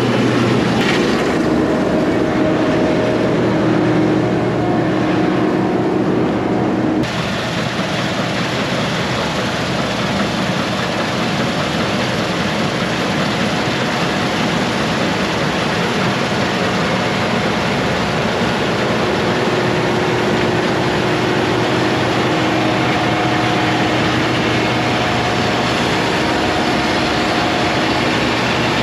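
Heavy farm machinery running steadily: a loud, even drone with a few faint held tones, growing brighter and hissier about seven seconds in.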